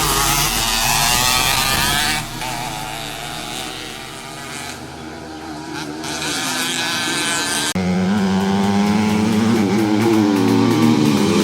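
Motocross bikes' engines revving, their pitch rising and falling as they accelerate and back off. The sound fades somewhat in the middle, then comes back louder and steadier from about two-thirds in.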